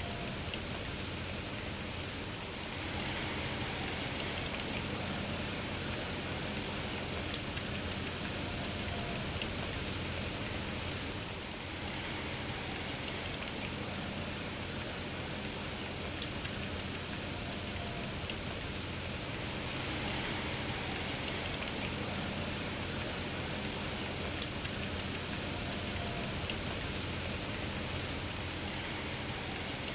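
Steady rain falling, an even hiss of many drops, with three sharp, louder single drop strikes spaced several seconds apart.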